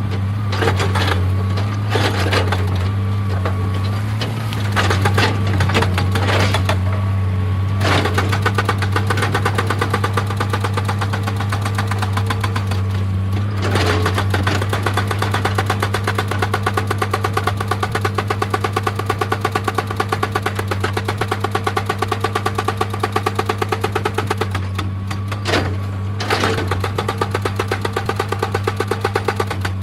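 An excavator's diesel engine runs steadily while a hydraulic breaker hammers on rock in a fast, even rhythm of many blows a second. The hammering breaks off briefly near the end and then resumes.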